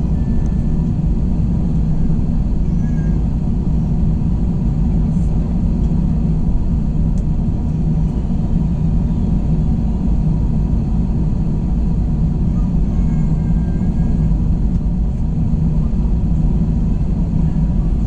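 Steady cabin rumble of an Airbus A321 in flight, the engines and airflow making an even roar with a constant low hum.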